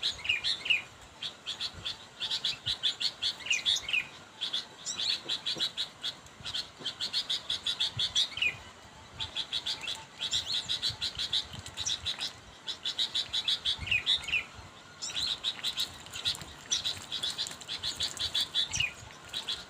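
Sooty-headed bulbul (kutilang) calling: repeated runs of quick, high chattering notes, each run about two seconds long with short pauses between, mixed with a few lower slurred notes. It is a call to challenge a rival, the kind used as a lure call for catching bulbuls.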